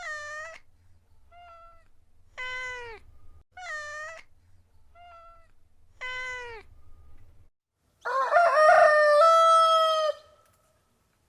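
A cat meowing, four clear meows with two fainter ones between them, then a rooster crowing once, a louder call of about two seconds that climbs and then holds before stopping abruptly.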